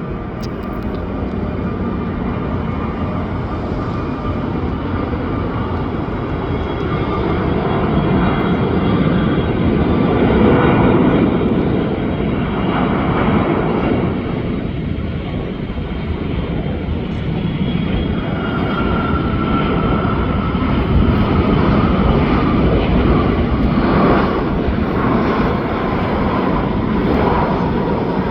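Jet engines of a landing Boeing 777-300ER (GE90-115B turbofans), a continuous roar with an engine whine. The roar swells twice, and in the second half the whine slowly drops in pitch.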